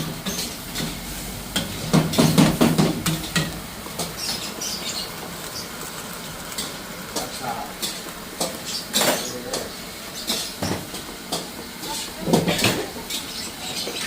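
Metal utensils clinking and knocking against cookware in irregular strokes while food is stirred. Heavier knocks come about two seconds in and again near the end.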